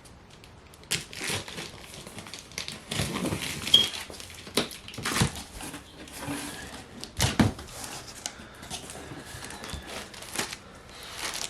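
Cardboard box being opened and unpacked: flaps pulled apart, with crinkling packing paper or plastic and irregular rustles and scrapes of the contents being handled.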